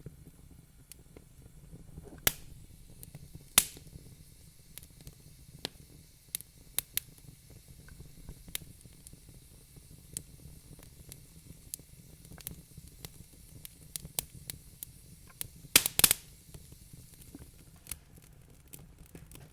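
Wood fire crackling: irregular sharp pops and snaps over a low steady rumble. Two loud pops come a couple of seconds and three and a half seconds in, and a quick burst of several pops comes near the end.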